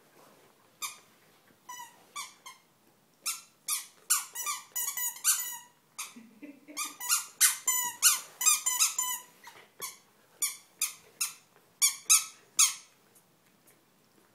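Dog chewing a squeaky toy sausage, setting off many short, high squeaks, some in quick runs of several, which stop near the end.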